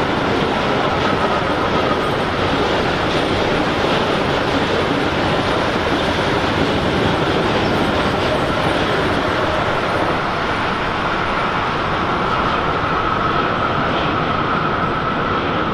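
A train passing close by: a steady, loud rumble of wheels running on the rails, with a faint high whine over it.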